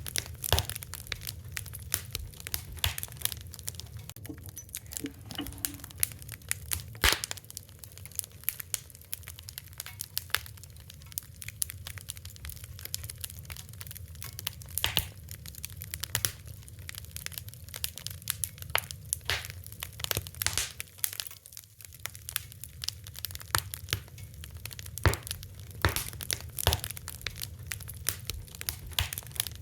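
Wood fire crackling, with frequent irregular sharp snaps and pops over a low steady rumble of flame.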